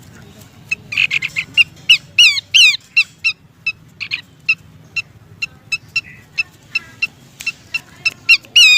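Pelanduk semak (Horsfield's babbler) lure calls: a rapid, uneven series of short, sharp chip notes, broken by a few quick down-slurred whistles, in a female's call to a male.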